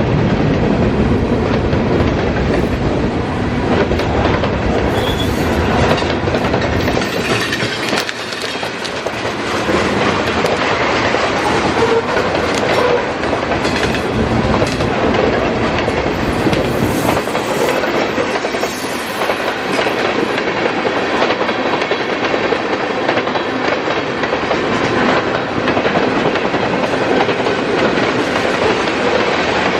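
Freight cars of a mixed freight train rolling past with a steady rumble, their wheels clicking over the rail joints.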